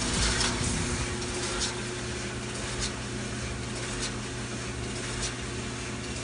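Clothes dryer running with its drum turning: a steady motor hum with a light tick repeating roughly every second. A foam pad has just been fitted so the drum's metal parts no longer touch, and the running is judged better.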